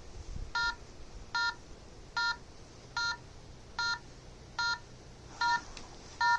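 Phone EMF-meter app beeping in a steady rhythm: a short electronic beep of a few stacked tones about every 0.8 seconds, eight times.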